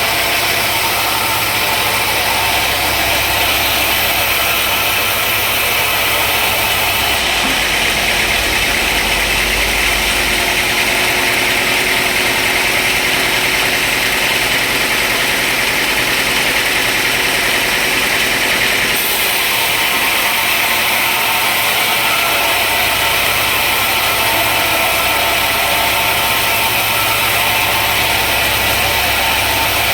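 Sawmill machinery running steadily, with a constant hiss. Its low hum drops away about seven seconds in and comes back around nineteen seconds.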